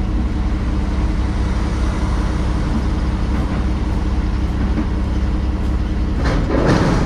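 Semi truck's diesel engine idling steadily, heard from inside the cab. A louder burst of noise comes about six seconds in.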